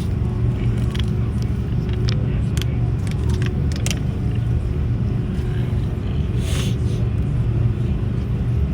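Steady low rumble of a moving vehicle, with a few faint clicks about one to four seconds in.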